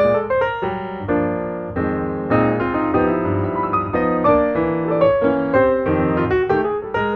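Background piano music, notes struck in quick succession with sustained chords underneath.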